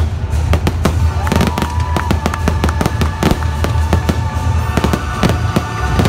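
Fireworks show finale: a rapid, dense run of aerial shell bangs and crackles, several a second, over the show's music soundtrack.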